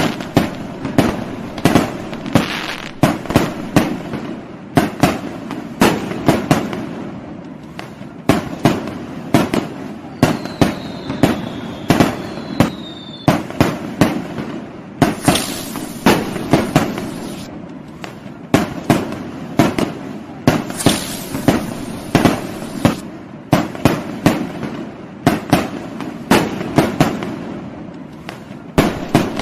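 Fireworks going off in a continuous barrage: sharp bangs and pops, several a second at an uneven rhythm, with no let-up.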